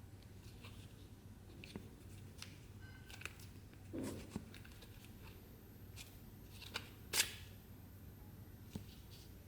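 Scattered light clicks and taps of small objects being handled, the sharpest one about seven seconds in, over a faint steady hum.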